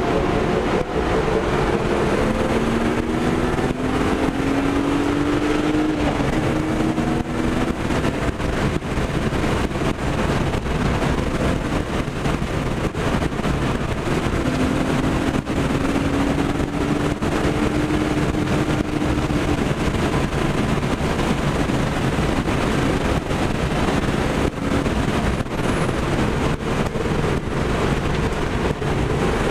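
A BMW 325i's straight-six engine driven hard, heard from inside the cabin over heavy road and wind noise. The engine note climbs twice as the car accelerates.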